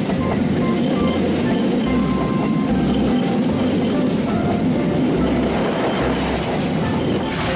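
Passenger train coaches rolling past at speed: a steady rumble of steel wheels on the rails with a regular clickety-clack of the wheels crossing rail joints.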